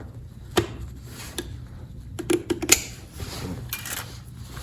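Mechanical clicks and clunks from a 2021 KTM 300 XC-W TPI's shifter and gearbox as it is shifted by hand. The engine is off, and the gearbox has a broken shift drum. A quick cluster of clicks about two seconds in is the loudest.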